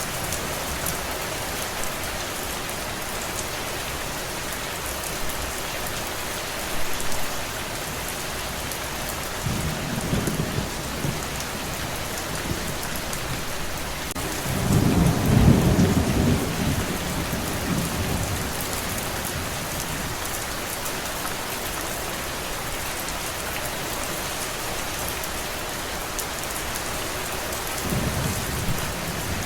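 Steady rain falling, with low rolls of thunder: one just before halfway, the loudest about halfway through, and another starting near the end.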